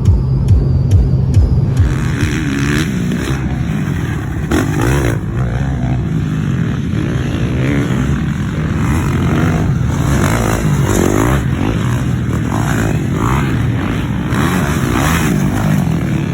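Motocross dirt bike engine running and revving up and down while riding, joined about two seconds in by a loud rushing noise.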